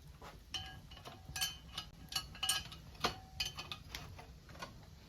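A metal utensil clinks against a frying pan several times, short sharp clinks with a brief ring, as fried turon is lifted out of the pan.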